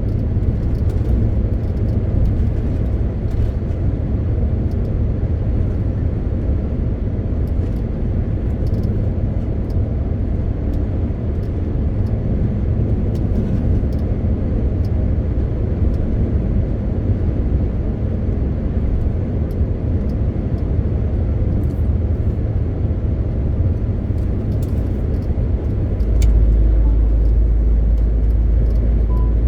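MAN TGX 18.520 truck on the move: a steady low rumble of its inline-six diesel engine and road noise. About 26 seconds in, a deeper steady hum sets in and it gets a little louder.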